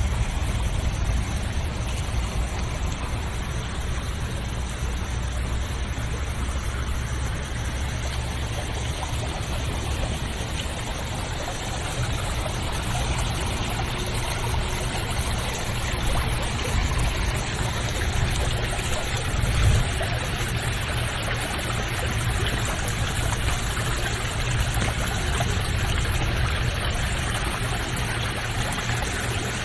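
Flowing water running steadily, an even rush with a low rumble underneath.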